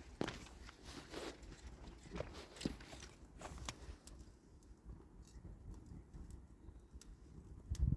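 Irregular light knocks and taps, denser in the first half, with one heavier low thump near the end.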